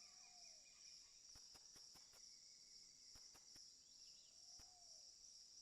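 Faint rainforest insect chorus: a steady high-pitched trilling of crickets and other insects. A few soft clicks and two short calls are heard, one near the start and one near the end.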